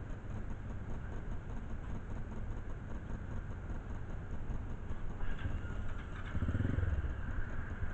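Motorcycle engine idling with a steady low rumble, growing louder for a moment about six seconds in.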